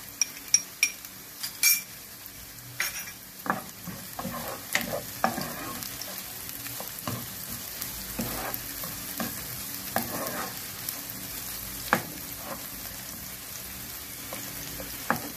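Chopped onions and green chillies sizzling in oil on a low flame, stirred and scraped around a non-stick wok with a plastic spoon. A few sharp clinks come in the first couple of seconds, and there is one more about twelve seconds in.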